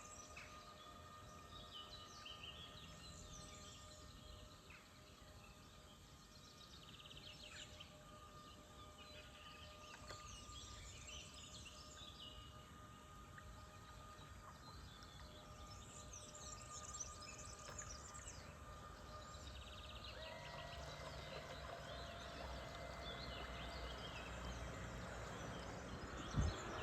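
Birds chirping and singing on and off over faint steady tones. About two-thirds of the way through, a new steady whine and a rushing noise come in and slowly grow louder.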